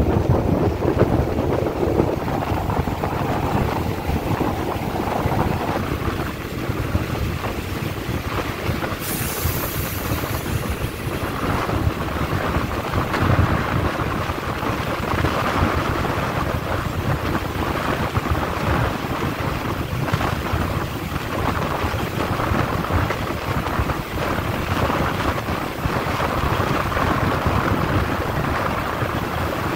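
Wind rushing over the microphone at the open window of a moving passenger train, over the steady rumble and clatter of the coach's wheels on the rails. A short high hiss comes about nine seconds in.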